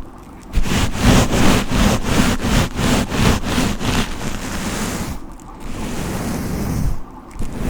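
Hair being brushed: a run of quick brush strokes, about four a second, then longer, smoother strokes in the last few seconds.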